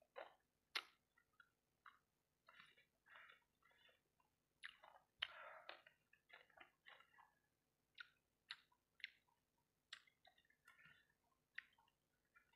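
Faint, close-up eating sounds of a person chewing sauce-coated fried rice balls: irregular wet smacks and sharp mouth clicks, one to three a second.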